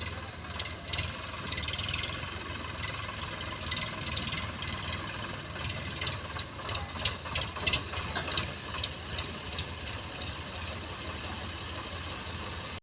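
Heavy diesel engine running steadily, with a rattling clatter of metal and short knocks over it that grow busier past the middle.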